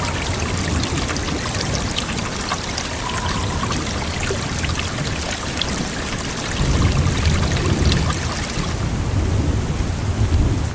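Steady heavy rain hissing, with a low rumble of thunder swelling in over the second half. It cuts off abruptly at the end.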